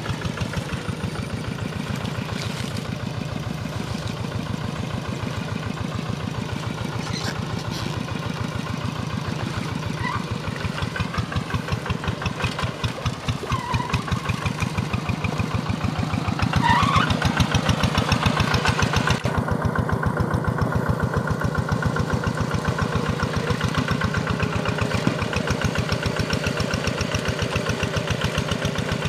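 Quick G1000 two-wheel hand tractor's single-cylinder diesel engine chugging steadily under load while tilling a flooded rice paddy, growing louder about two-thirds of the way through.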